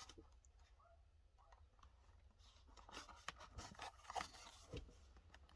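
Near silence with faint rustles and light ticks of a blister-packed diecast car card being handled, a little busier from about halfway through.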